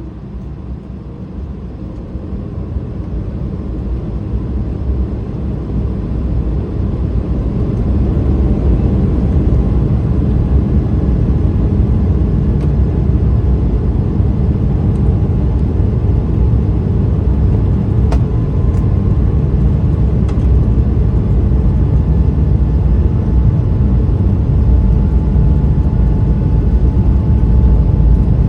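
Airbus A220's Pratt & Whitney PW1500G geared turbofan engines at takeoff power during the takeoff roll: a deep rumble that grows louder over the first several seconds and then holds steady.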